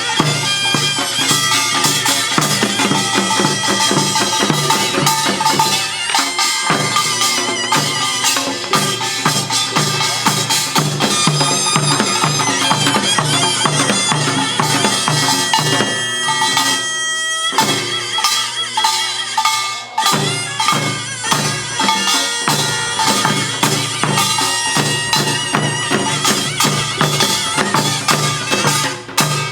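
Korean pungmul band playing: a reedy taepyeongso shawm carries a wavering melody over fast, driving percussion of gongs and drums.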